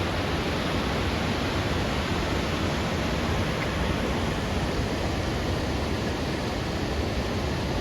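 Steady, loud rush of water from the Lechfall, the Lech river pouring over its falls, an even noise with no breaks.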